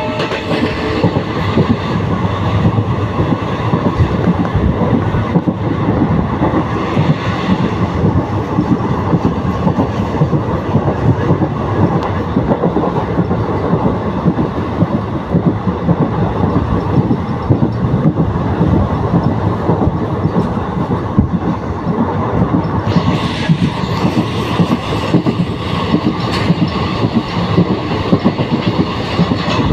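Passenger train coach running at speed, its wheels clattering over the rails with rushing air noise, heard from the open coach doorway. The rushing grows stronger about three-quarters of the way through.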